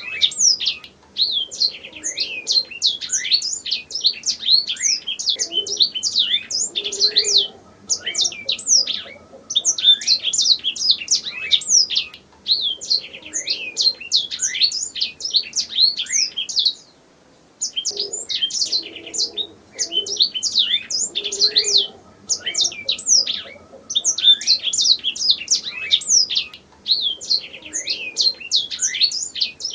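Domestic canary singing: long, rapid rolls of quick downward-sweeping high notes, phrase after phrase with short breaks and one longer pause about halfway through.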